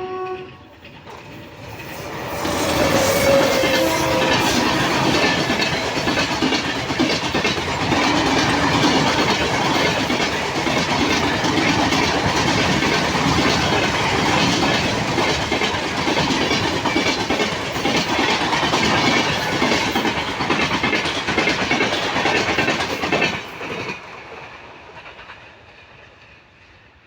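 An Indian Railways train passing close by at speed, its wheels clattering over the rail joints for about twenty seconds. The sound drops away suddenly, then fades. The very start catches the end of a train horn blast.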